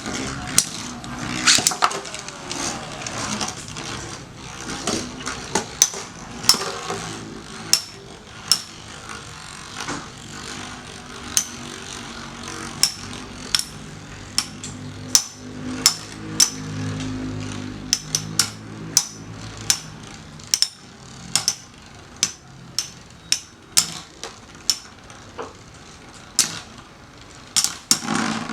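Metal Fight Beyblade spinning tops (Lightning L-Drago, Storm Pegasus and Rock Leone) whirring in a stadium and repeatedly colliding, with sharp metallic clacks at irregular intervals over a steady spinning hum.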